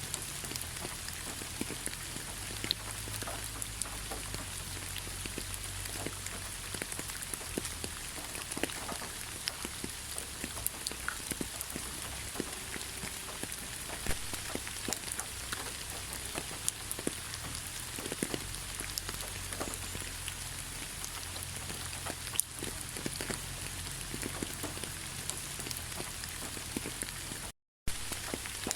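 Steady rain falling, with many small separate drop hits. The sound cuts out completely for a moment near the end.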